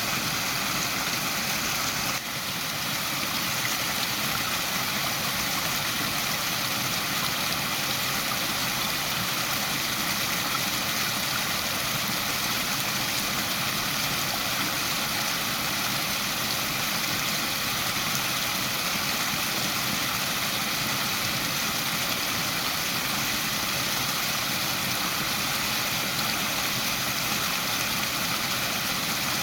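Waterfall: a steady, even rush of falling water, with a brief dip in level about two seconds in.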